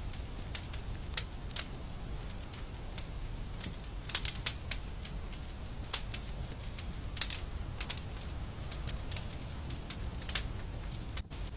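Wood fire crackling in a fireplace: irregular sharp pops and snaps, a few louder ones, over a steady low rumble. The sound cuts out for an instant near the end.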